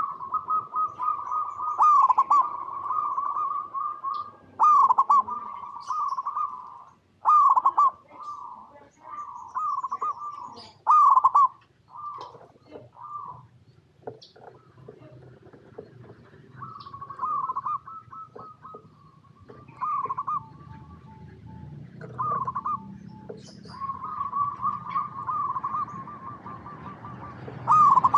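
Zebra doves cooing: repeated phrases of rapid, rolling coos with short gaps between them.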